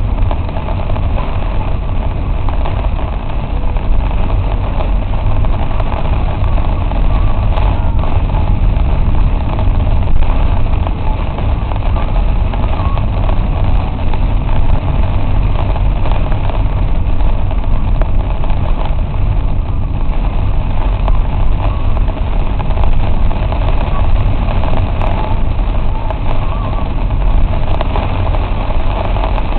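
Steady low rumble of a car moving in heavy rain, heard from inside the cabin.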